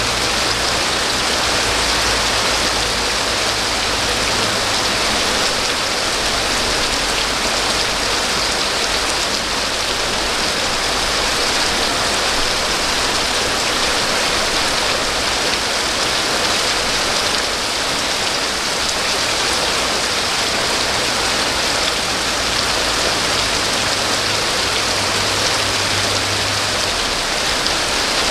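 Steady rain falling on a surface, a dense even hiss with no pauses.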